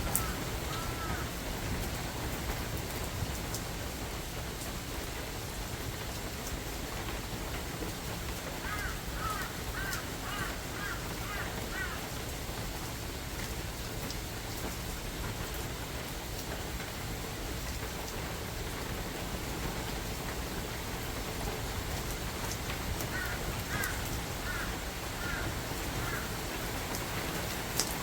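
Steady rain falling on a forest, an even hiss of drops on leaves and ground. Twice a short series of repeated call notes rises above it, about nine seconds in and again near the end, most likely a bird.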